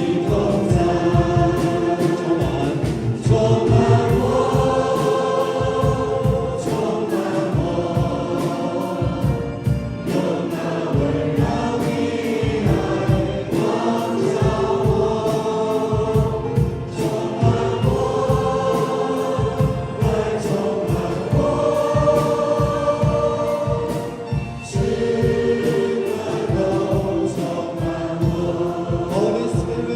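Congregational worship song: a group of voices singing together over a band with a steady beat.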